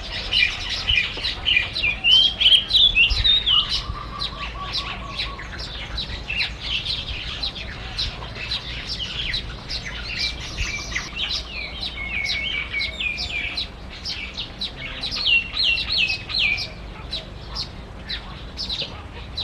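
Small birds chirping and twittering in fast runs of short, high chirps, loudest a few seconds in.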